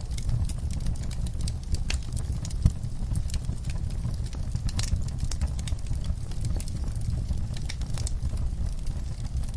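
Wood fire burning in a hearth, crackling with frequent sharp pops and snaps over a steady low rumble of the flames.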